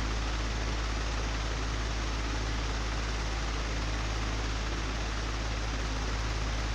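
Old electric fan running steadily: a constant deep hum under an even whoosh of moving air.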